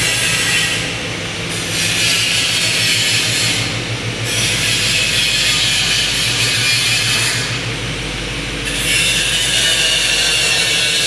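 Ford Mustang GT's 5.0-litre V8 idling with a steady low pulse, under a loud hiss that swells and fades several times.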